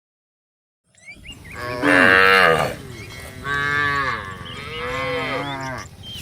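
Cattle mooing: three long, drawn-out moos after about a second of silence, the first the loudest.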